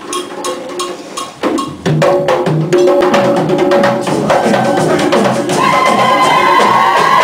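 Afro-Brazilian drum group playing a fast rhythm of sharp, wood-block-like strikes over drums. The playing dips briefly about a second and a half in, and a sustained higher tone joins about five seconds later.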